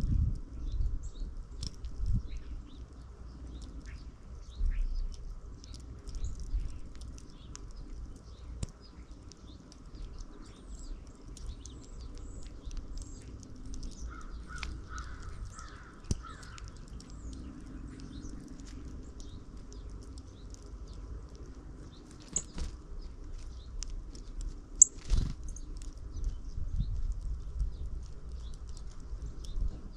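Small backyard birds chirping in short, scattered high calls, with a run of lower, harsher calls around the middle. A low rumble of wind from the snowstorm runs underneath, and two sharp clicks come near the end.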